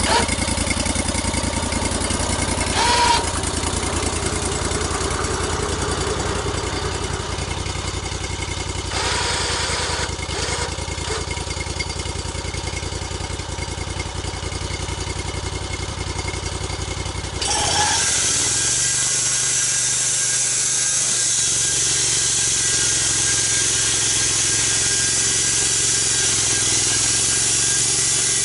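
Engine of a portable log sawmill running steadily. About two-thirds of the way in, a loud, even hissing sawing sound sets in suddenly and the engine note drops, as the blade goes into the log under load.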